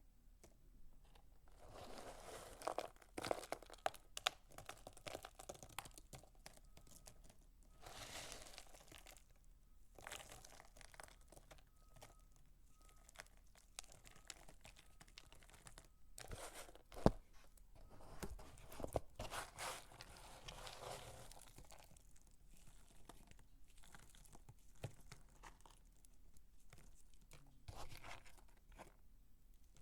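Dry soap crunching and crackling as it is worked by hand, in bursts of a few seconds, with many small clicks and one sharp click about seventeen seconds in.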